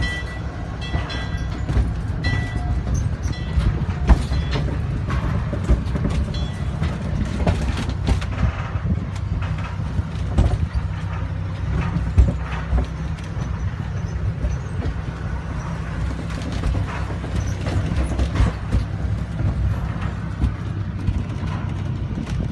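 Narrow-gauge mine train running along the track, heard from aboard: a steady low rumble with frequent irregular clicks and knocks from the cars and rails. A few brief high squeaks come in the first few seconds.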